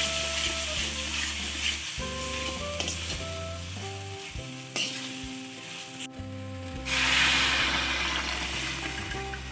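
Spiced masala paste sizzling in a hot kadai as a wooden spatula stirs it. About seven seconds in, the sizzling turns suddenly louder as liquid goes into the hot pan and starts to bubble.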